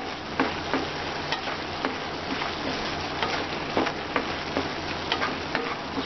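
Minced meat (keema) sizzling as it fries with ground spices in a kadai, stirred with a wooden spatula that scrapes and knocks against the pan about two or three times a second over a steady sizzle.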